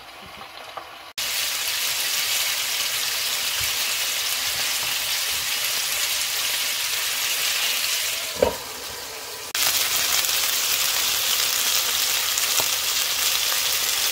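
Chicken drumsticks sizzling in oil in a frying pan over medium heat, a steady hiss that starts suddenly about a second in. A short knock about two-thirds of the way through as the glass lid is lifted, after which the sizzling is louder.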